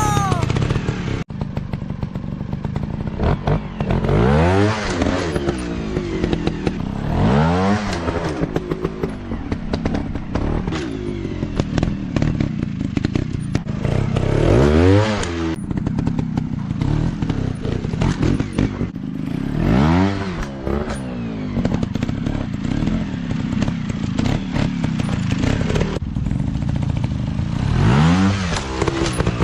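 Dirt bike engines revving up and falling back again and again, each rev a rise and fall in pitch a few seconds apart. The sound breaks off sharply and picks up again a few times.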